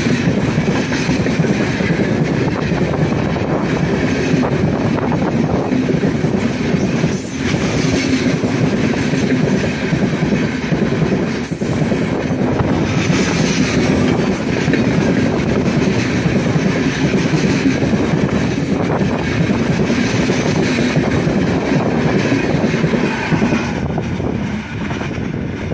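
Heavy freight train's open wagons rolling past at speed close to the track, wheels running over the rails in a steady loud rush. The sound drops away near the end as the tail of the train passes and recedes.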